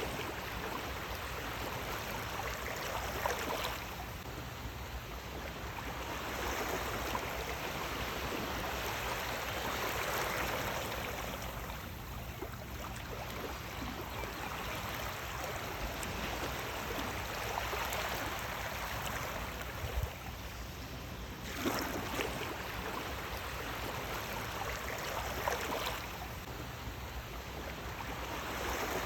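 Sea waves washing in, the rush of water swelling and easing every few seconds.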